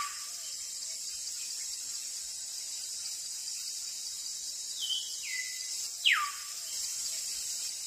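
Outdoor ambience: a steady high insect drone with a bird calling over it, two sharp downward-sliding whistles and a stepped two-note call between them.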